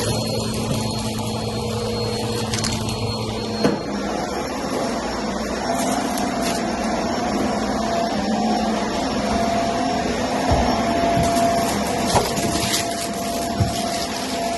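Vacuum cleaner running steadily on carpet, its motor tone shifting to a higher pitch about four seconds in, with a few short knocks.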